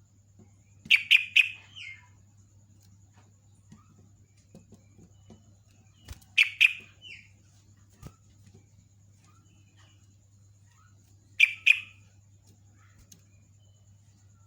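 Yellow-vented bulbul (trucuk) giving its bubbly call in three short bursts of quick, sharp notes, about five seconds apart: the call used to lure other bulbuls.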